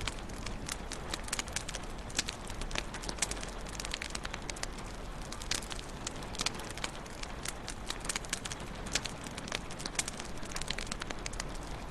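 Wood fire in a fireplace crackling, with many sharp irregular pops and snaps over a steady low rumble of the burning logs.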